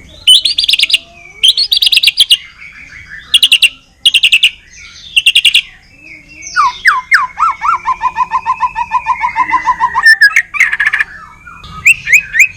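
White-rumped shama (Medan murai batu) in full, loud song: several short bursts of rapid repeated notes, then from about halfway a long, fast run of repeated strokes under a sliding whistle, with more quick notes near the end.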